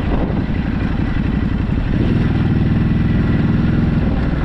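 Ducati Hypermotard motorcycle with its stock exhaust, engine running while being ridden. The engine note holds steady through the second half.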